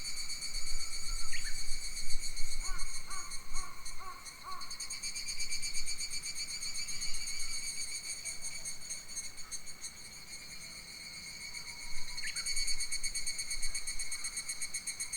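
A steady, fast-pulsing high shrill of summer insects in a forest, with a few short bird calls in the first few seconds and two quick rising chirps, and some wind on the microphone.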